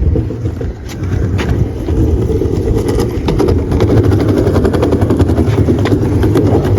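Skateboard wheels rolling, a loud steady rumble that gets louder about a second in, with a fast run of clicks.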